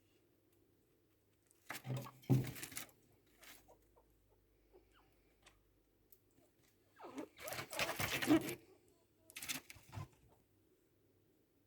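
Chinchillas during mating: three short bursts of scuffling and calling, each a second or so long, about two seconds in, near the middle and again shortly after.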